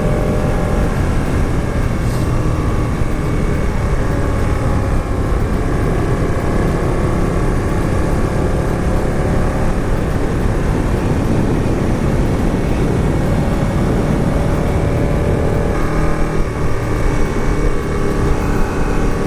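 Motorcycle engine running steadily under way, with heavy wind rumble on the microphone; the engine note changes slightly about sixteen seconds in.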